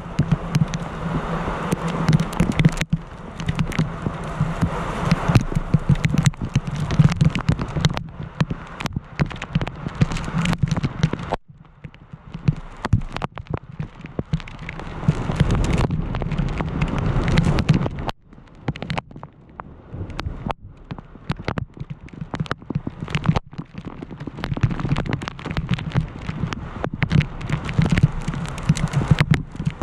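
Heavy rain pouring down, with many sharp patters of drops striking close to the microphone. The downpour dips suddenly twice, about a third and two-thirds of the way through, then picks up again.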